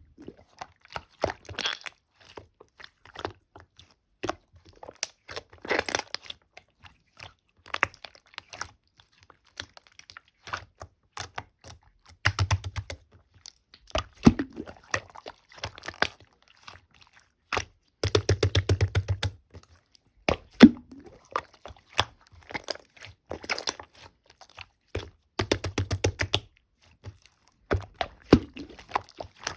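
Marbled slime being mixed and kneaded by hand: scattered sticky clicks and crackling pops, with a few spells of rapid crackling.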